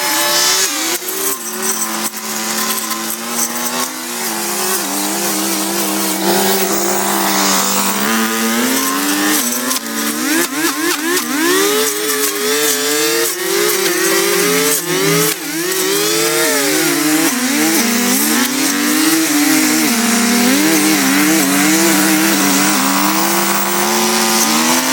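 Small petrol engine of a handheld garden power tool, such as a brush cutter or chainsaw, running and revving up and down, with quick throttle flutters, as it cuts through vegetation.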